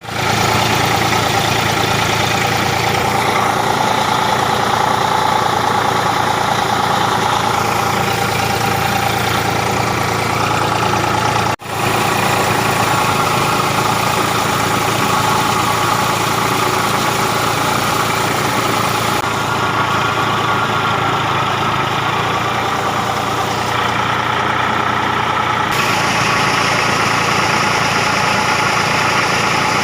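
Eicher tractor's diesel engine running steadily, with one brief sudden drop-out a little past the middle.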